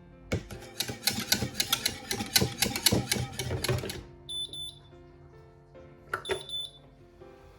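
A rapid run of sharp clicks or taps for about four seconds over background music, followed by short high electronic beeps twice.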